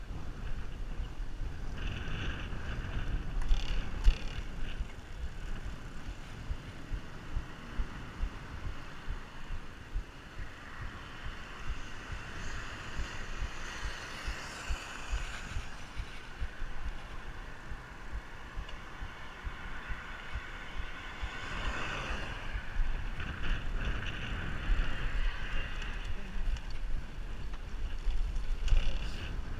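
Wind buffeting the microphone of a camera on a moving bicycle, a steady low rumble with a rushing hiss that swells and fades, and a few sharp clicks about four seconds in.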